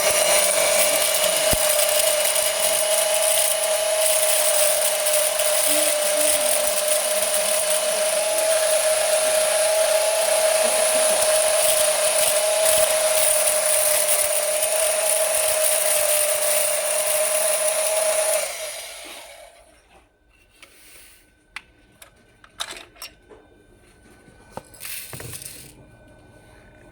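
Small laboratory rice husker running steadily with a constant whine and a high hiss as it dehulls a grain sample, cutting off about two-thirds of the way through. Faint clicks and rattles of grains being handled follow.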